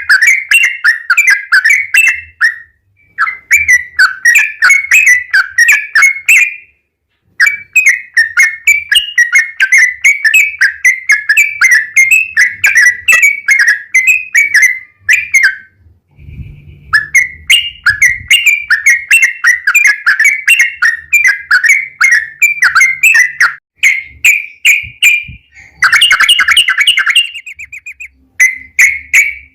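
Yellow-vented bulbul (trucukan) singing long, fast runs of repeated chattering notes, broken by short pauses every few seconds.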